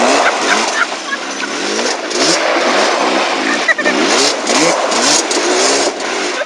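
Yamaha Banshee quad bikes' twin-cylinder two-stroke engines revving up and down again and again.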